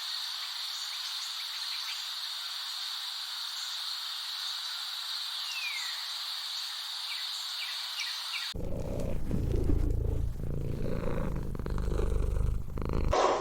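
A steady high-pitched hiss with a faint chirp, then after a sudden cut about eight and a half seconds in, a lynx purring with a loud, low rumble.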